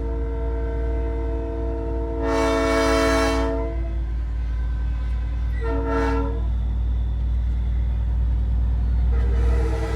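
Nathan Airchime P3 train horn on a big rig sounding its chord in blasts: a long one that ends about a third of the way in, a short one past the middle, and another starting near the end. Under it runs a steady low rumble from the truck.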